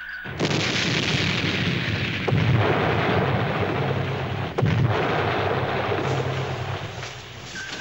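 Depth charges exploding around a submerged submarine, as a TV drama sound effect: a loud blast about half a second in, then further blasts about two and four and a half seconds in, each trailing off in a long rumble.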